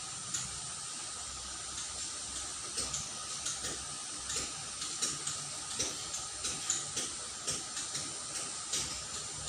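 Shallow water trickling in a small ditch: a steady hiss with frequent small gurgles.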